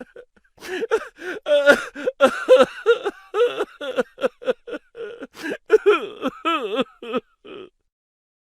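A voice making a quick string of short non-word vocal sounds, grunts, gasps and chuckle-like bursts, some sliding sharply up and down in pitch.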